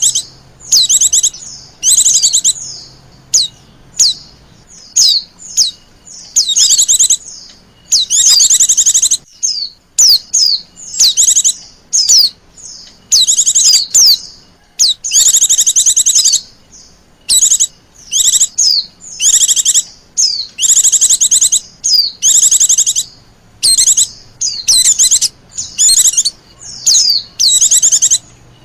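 White-eyes (pleci) giving rapid, high-pitched chattering calls in short bursts, one after another with brief gaps. This is the agitated 'ribut' chatter used as a lure call to draw in wild white-eyes.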